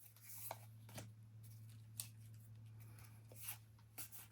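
Near silence: faint scattered ticks and rustles of trading cards and booster-pack wrappers being handled, over a steady low hum.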